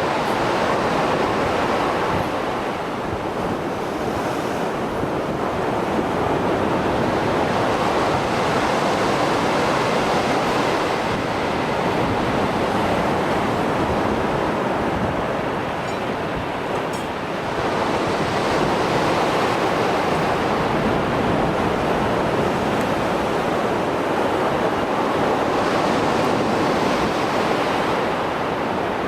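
Mediterranean surf after a storm: waves breaking and washing on the shore in a continuous rush, swelling and easing every few seconds, with some wind on the microphone.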